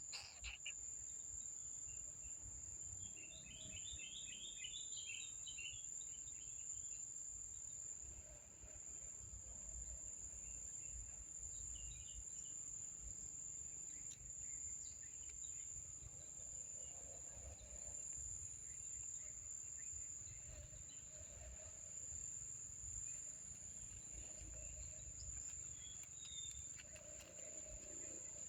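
Steady, high-pitched insect drone, cricket-like, running unbroken, with a short run of rapid chirps about three seconds in and a low rumble underneath.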